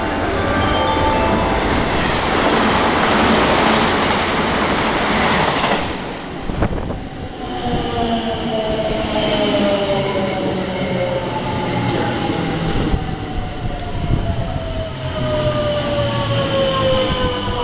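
Haruka limited express electric train pulling into the platform: a loud rush of wheels and air as the cars come in, then the traction motors' whine falling steadily in pitch as it brakes to a stop.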